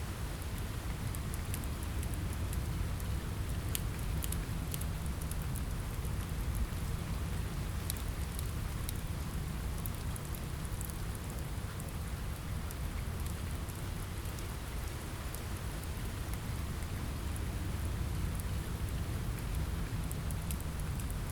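Steady rain on a window with a deep low rumble underneath, and sharp crackles from a wood fire scattered through it.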